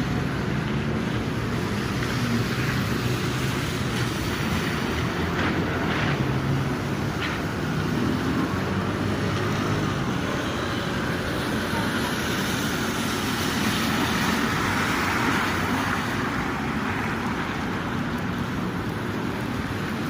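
Steady urban traffic noise with engine hum, swelling as a vehicle passes close about two-thirds of the way through.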